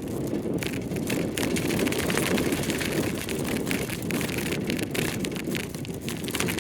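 Wind buffeting the microphone of a phone mounted on a moving bicycle, with the phone rattling and knocking in its loose mount as the bike bounces.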